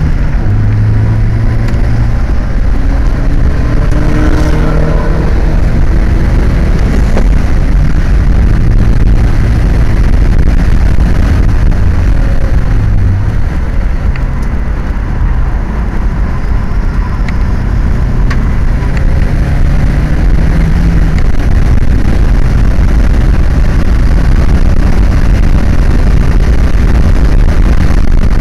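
Vauxhall VX220 sports car heard from inside the cabin while lapping a race track, its engine note rising and falling through acceleration and gear changes, over constant wind and road noise.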